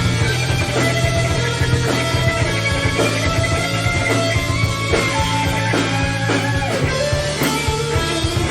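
Live heavy metal band: distorted electric lead guitar playing a solo with string bends, over bass, drums and a held low chord.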